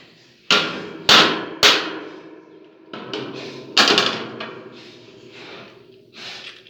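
Four sharp knocks: three in quick succession about half a second apart, then a fourth after a two-second pause, each with a short ringing tail.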